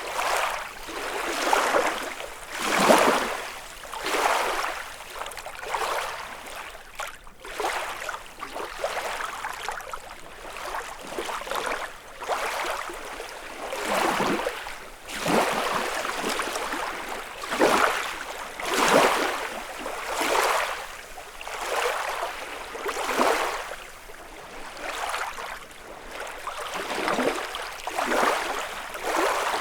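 Small lake waves lapping and washing onto the shore, one wash every second or two, in an uneven rhythm.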